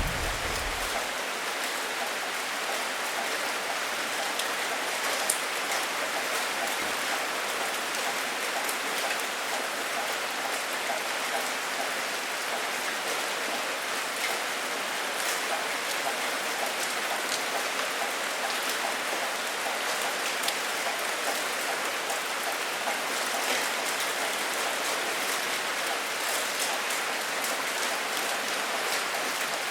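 Steady heavy rain, an even hiss with scattered sharp drop ticks. The tail of a low thunder rumble dies away in the first second.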